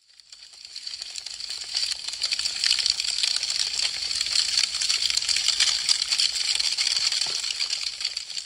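Wood fire crackling: a dense run of sharp pops and snaps from burning branches. It swells up from silence over the first couple of seconds, then holds steady.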